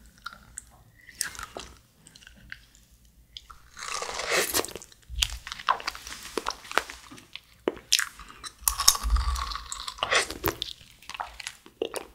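Close-up crunching and chewing of a TikTok fruit jelly, with sharp crackles and two longer bursts of crunching, one about four seconds in and another around nine seconds in.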